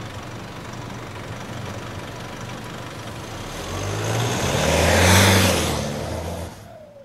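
Off-road SUV engine running steadily, then revving up about three and a half seconds in, with engine and tyre noise swelling to a peak about five seconds in and dying away.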